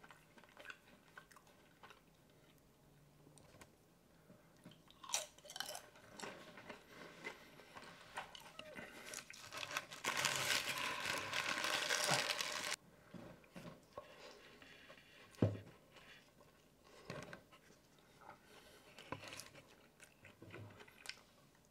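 Close-miked chewing and crunching of cheese-covered tortilla-chip nachos and a California burrito, in short scattered mouth sounds. About halfway through comes a louder stretch of crackling lasting two to three seconds.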